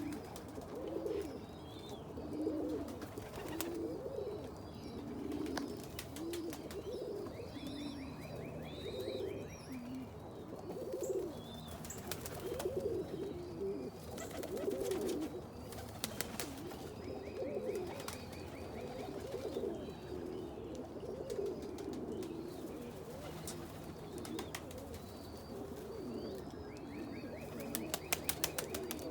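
Many domestic pigeons cooing over and over in a loft, with a few sharp clicks and some higher chirps among them.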